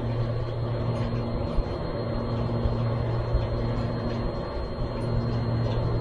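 Steady low mechanical hum, like a motor running, over a constant rushing background noise.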